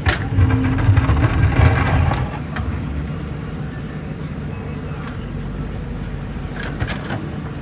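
JCB 3DX backhoe loader's diesel engine running, louder and heavier for the first two seconds or so, then settling to a steady run. A sharp knock sounds right at the start.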